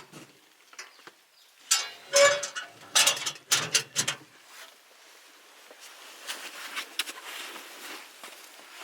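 An animal's short, loud cries, several in a row, then soft scuffing and light clicks.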